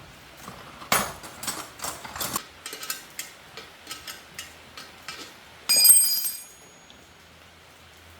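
Metal tools and parts being handled: a run of irregular sharp taps and clinks, then a louder metallic clang near six seconds in that rings briefly before fading.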